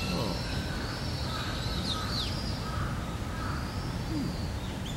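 Wild birds calling in short chirps and falling notes, over a steady low rumble of outdoor background noise.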